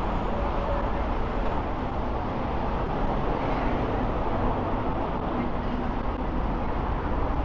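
Steady road traffic noise from passing vehicles, a continuous low rumble with no single event standing out.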